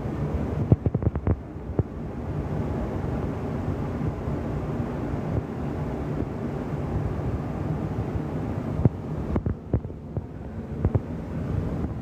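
Steady low rumbling noise, with a few sharp clicks or knocks about a second in and again near the end.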